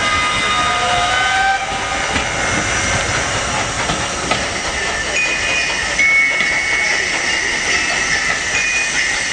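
Railway noise of a train moving through a station, with steam hissing and a few high held tones over a steady rumble.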